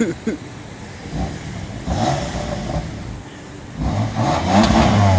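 2015 BMW M3's twin-turbocharged 3.0-litre straight-six, heard at the quad exhaust pipes, revved twice while standing. The first rev is short, about a second in. The second, starting near the end, is longer and louder, with a rising pitch.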